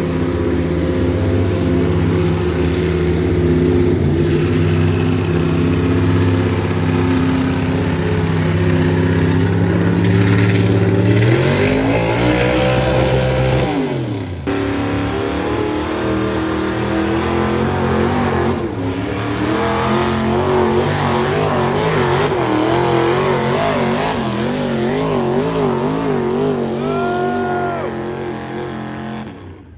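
Big engine of a pulling vehicle running hard under load. It holds a steady pitch, swings up and back down once about twelve seconds in, then wavers up and down for the rest of the run.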